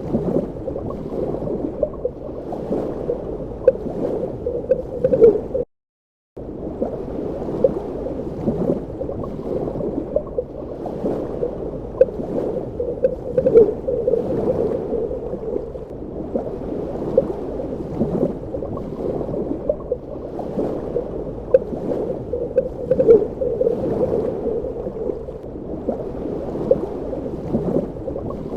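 Underwater ambience: muffled, continuous bubbling and gurgling water, with a brief cut to silence about six seconds in.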